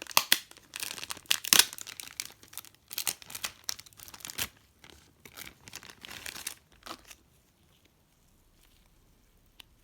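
Plastic packaging of a model kit's parts crinkling and rustling as it is handled, for about seven seconds, then stopping; one faint click near the end.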